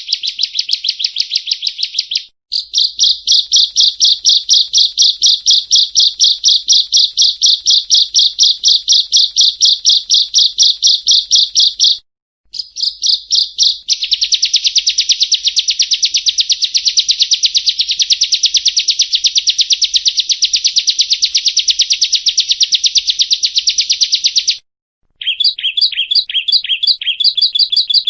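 Prinia (perenjak) song: long runs of rapid, evenly repeated high notes, broken by three brief pauses. After the last pause the phrase changes to lower, downward-sweeping notes.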